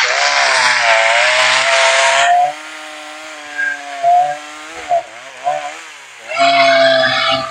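Two-stroke chainsaw revved hard for a couple of seconds, dropping back to idle with a few short throttle blips, then revved hard again near the end.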